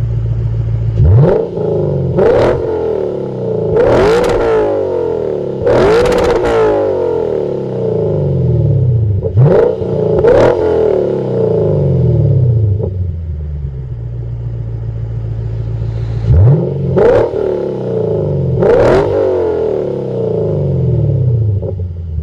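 Lexus RC F's 5.0-litre V8 exhaling through a valved RR Racing R2 cat-back exhaust with X-pipe, revved from idle in about nine quick blips in three bunches. Each rev falls back to a steady idle, which is heard around the middle and at the end.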